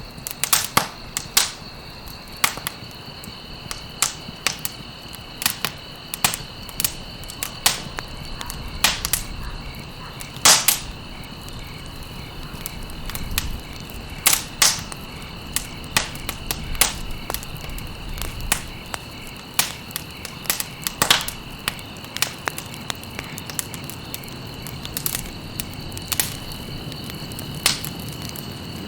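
Campfire of burning stalks crackling, with irregular sharp pops, several close together at times, over a low hiss of flame. A steady high, thin tone runs underneath.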